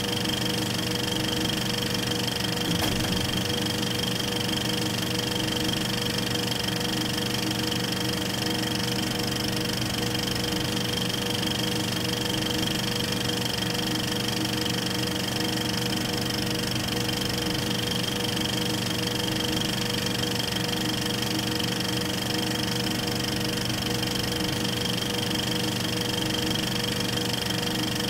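Film projector running: a steady mechanical whir with a constant hum and no change throughout.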